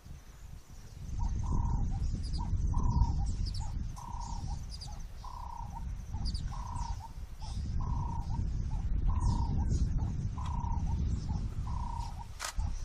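A bird calls a short, even note over and over, a little more than once a second, starting about a second in. Fainter high chirps of other birds and a low rumble run underneath.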